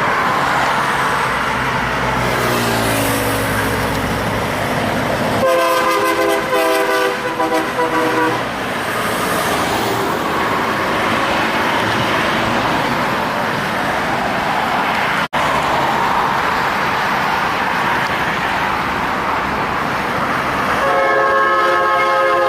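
Heavy trucks passing in steady traffic, one engine rising in pitch as it pulls away, with a truck air horn sounding twice: a blast of about three seconds some five seconds in, and another starting near the end.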